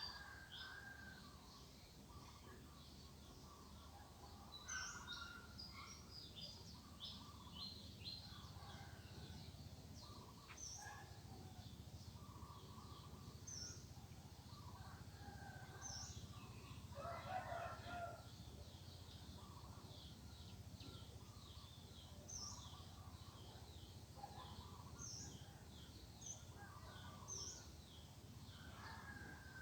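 Faint rooster crowing over small birds chirping in many short, high calls, with the loudest call a little past halfway.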